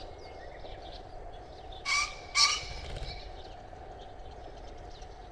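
Male green pheasant giving its two-note territorial crow, two harsh, loud calls about half a second apart, around two seconds in. It is the 'ken-ken' call of the spring display. Faint chirps of small birds sound in the background.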